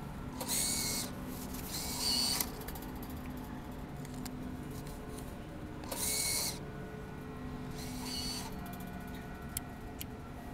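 Parking pay machine working as payment goes in: four short bursts of mechanical whirring, each about half a second, over a low steady hum.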